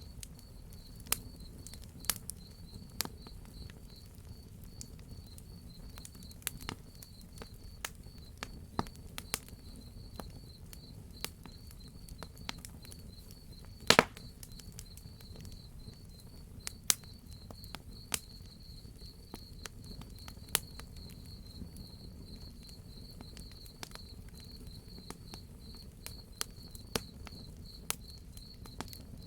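Crackling wood fire giving irregular sharp pops, one louder pop about halfway through, over steady pulsing cricket chirping and a low rumble.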